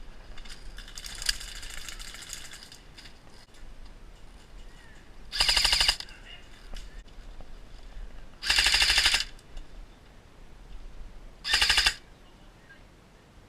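Airsoft gun firing three short full-auto bursts, each under a second, a few seconds apart.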